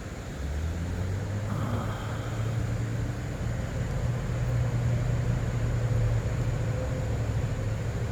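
A low engine drone that comes in about half a second in and holds, growing slightly louder toward the end.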